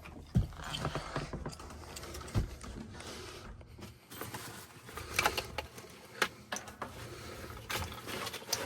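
Irregular light clicks and knocks of hand work on parts, over a faint steady low hum.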